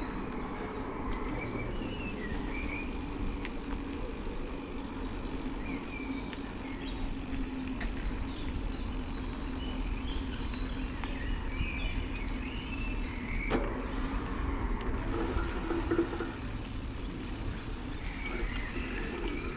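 Steady low rumble of road and traffic noise, with a faint steady hum and scattered small chirps.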